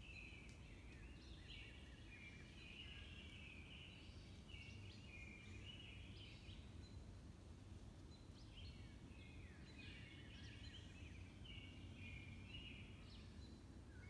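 Several woodland songbirds singing faintly, with overlapping chirps and warbles and a short lull about halfway through, over a low steady background noise.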